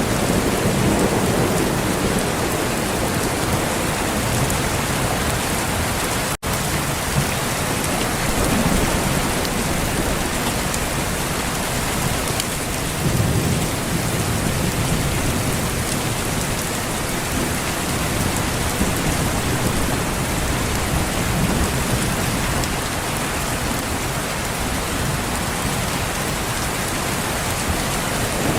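Steady rain falling hard, with low rumbles of thunder swelling now and then, most strongly about halfway through. The sound cuts out for a split second about six seconds in.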